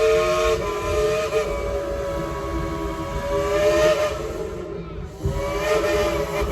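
Coal-fired steam locomotive's chime whistle blowing long, several tones sounding together as one chord. It fades out briefly about four and a half seconds in, then sounds again.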